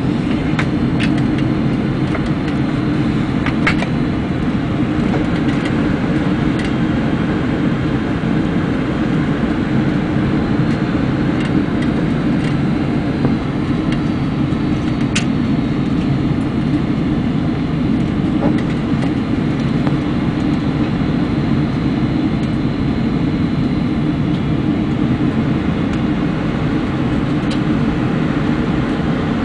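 Steady low rumble of a Boeing 747-400's engines and rushing air, heard inside the upper-deck cabin, with a few faint ticks from the cabin.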